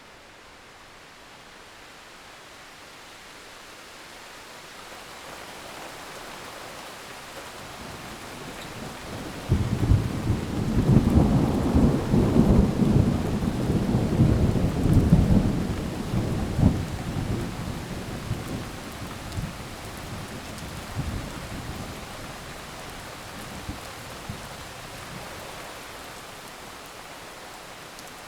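Steady heavy rain, with a thunderclap breaking in suddenly about a third of the way through: a deep, crackling rumble that lasts several seconds and slowly rolls away.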